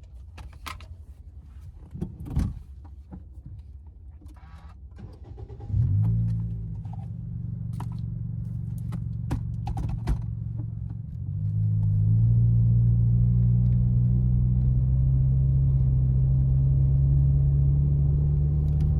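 Clicks and jangling keys, then a car engine starts about six seconds in and idles. Around eleven seconds the engine note steps up and then holds steady.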